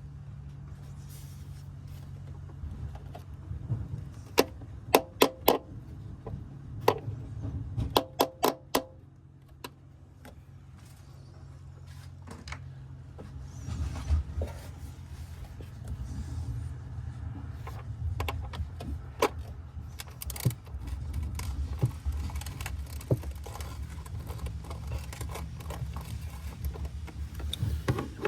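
Hand tools working on metal at an engine's upper intake manifold: a cluster of sharp, ringing metal clinks and taps, then irregular scraping and rustling while rust is cleaned from around a seized bolt. A steady low hum runs underneath.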